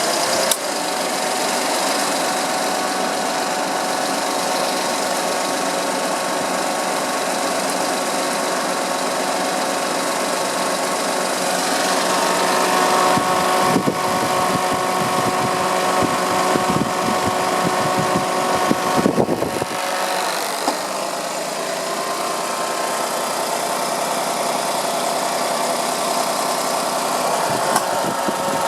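Small car engine idling steadily, with a stretch of irregular low knocking or rattling about midway.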